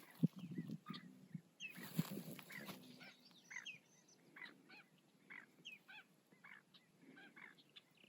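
Birds calling in a marsh: a long series of short, repeated calls, with a brief rush of noise about two seconds in.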